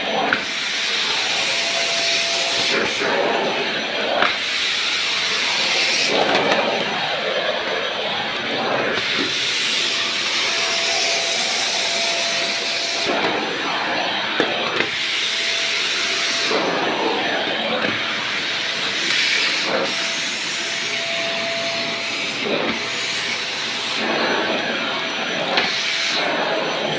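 Vacuum cleaner running continuously, its airy hiss swelling and easing every few seconds as the nozzle is worked across the kitchen floor.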